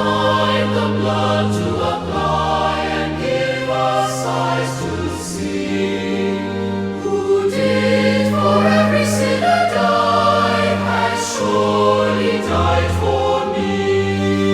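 Choir singing a hymn in sustained chords over a low bass line, with no words made out.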